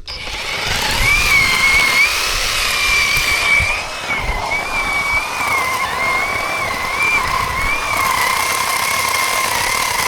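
Battery-powered 48V cordless chainsaw running with a high electric-motor whine that wobbles slightly in pitch every second or so, over the rasp of the chain.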